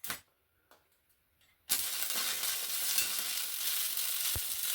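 Stick (arc) welder with a stainless rod: a few light taps, then under two seconds in the arc strikes and runs as a steady crackling sizzle, laying a weld on a steel exhaust flange.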